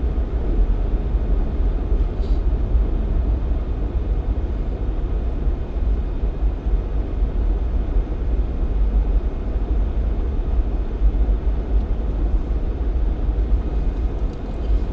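Jeep Cherokee XJ driving at a steady pace, heard from inside the cabin: an even, low rumble of engine and tyre noise with no change in speed.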